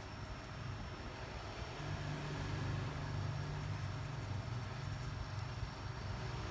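Steady low hum of a small motor or fan that comes up about two seconds in, over a faint hiss.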